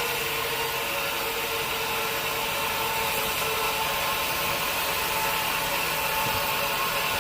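Sawmill machinery running steadily: an even mechanical noise with a hiss and a faint high whine.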